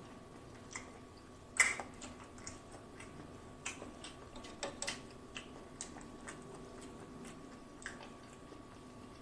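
Close-miked chewing: scattered soft mouth smacks and clicks, with one louder click about a second and a half in.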